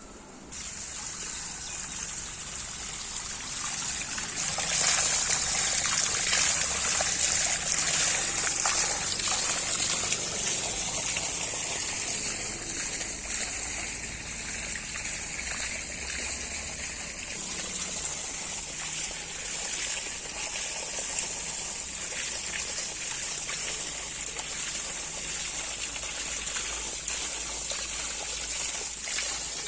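Water running steadily, a continuous trickle and splash that grows louder a few seconds in.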